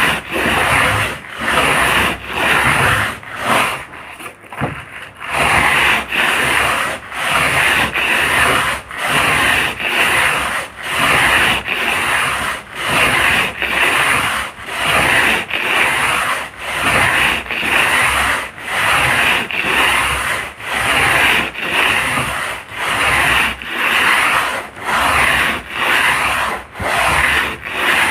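Sandpaper rubbed back and forth by hand over a boat hull, a steady rhythm of a little more than one scraping stroke a second, with a brief lighter patch about four seconds in. This is surface preparation before the gelcoat goes on.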